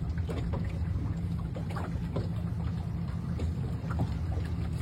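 A boat motor running steadily at an even speed with a low hum, with water and wind noise over it.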